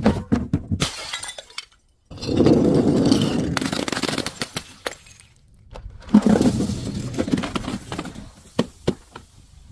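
Glass bottle being crushed: loud crunching and crackling of shattering glass in two long runs, with sharp cracks and clinks of breaking pieces between them.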